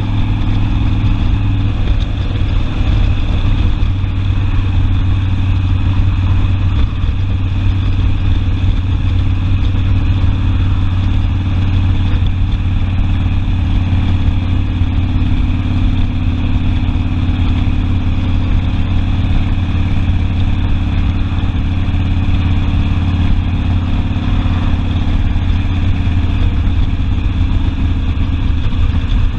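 Harley-Davidson Sportster V-twin engine running steadily, with a slight change in its note about two seconds in.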